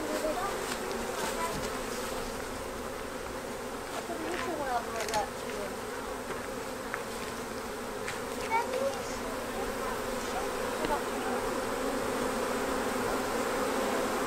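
Honeybee swarm buzzing in a steady drone, with a few single bees passing close by louder now and then.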